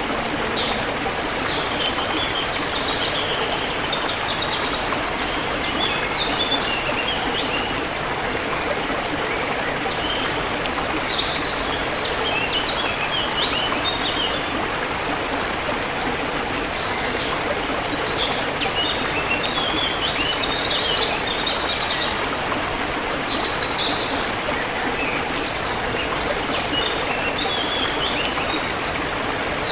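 Forest river water flowing steadily, with birds chirping in short runs every few seconds above the rush of the water.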